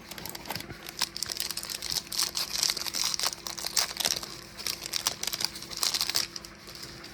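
Foil wrapper of a Topps baseball card pack crinkling and tearing as it is opened, a dense crackle lasting about six seconds.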